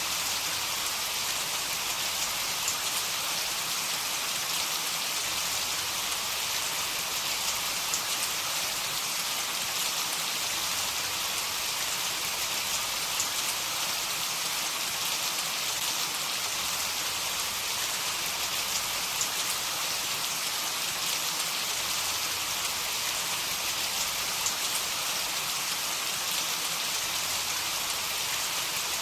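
Steady heavy rain falling, an even hiss with scattered drop ticks; no thunder.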